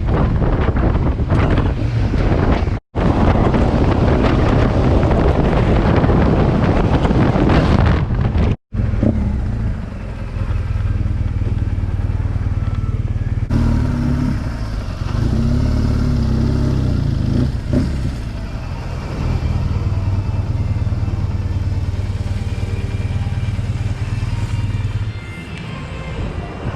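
Heavy wind buffeting the microphone of a BMW R1200GS ridden at speed, broken twice by brief dropouts. From about nine seconds in, the bike's boxer-twin engine comes through, running steadily with a couple of rises and falls in pitch.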